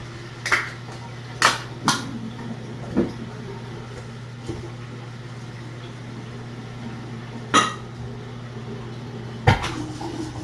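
Scattered metal clinks and knocks of a utensil against a food tin and dishes as canned cat food is dished out, about six separate strikes.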